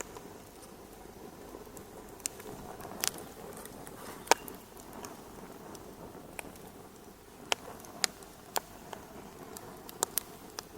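Fireplace fire crackling: a soft steady hiss with about ten sharp, irregular pops, the loudest about four seconds in.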